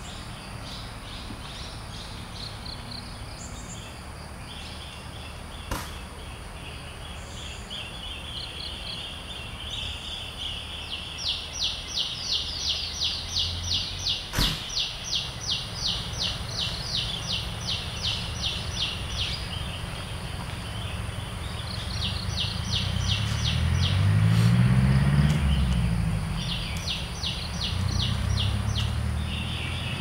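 Outdoor ambience with a bird calling in long runs of quick, evenly spaced high chirps, about three a second. A low rumble swells and dips in pitch in the second half and is the loudest sound.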